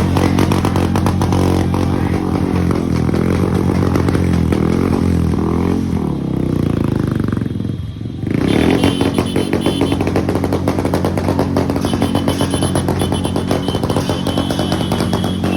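Royal Enfield Bullet's single-cylinder engine running loudly through a changed silencer, its exhaust beating in rapid pulses. About eight seconds in the engine note dips briefly, then picks back up and runs steadily.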